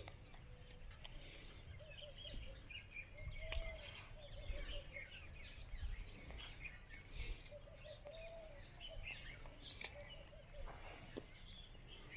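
Birds chirping, many short calls scattered throughout, faint over a low steady rumble.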